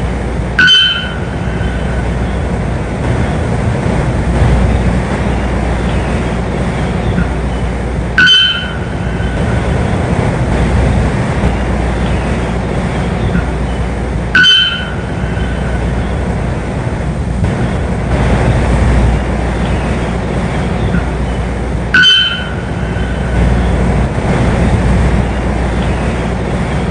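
A short, sharp bird call with a clear ringing tone, repeated about every seven seconds, four times, over a steady rumbling background noise.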